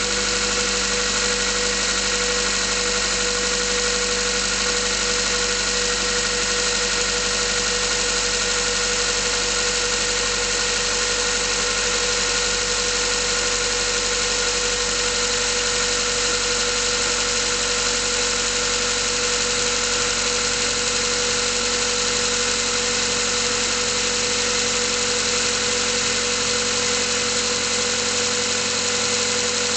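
Mazda 3 petrol engine running steadily when cold, with the abnormal engine noise it makes when cold, which Mazda put down to the pistons.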